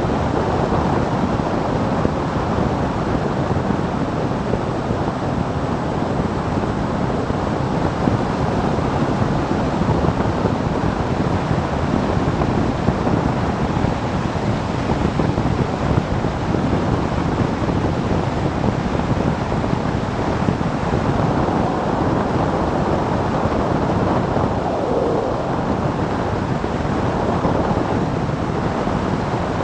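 Steady wind rushing over the microphone of a camera on a moving motorcycle, an even roar at riding speed that drowns out any distinct engine note.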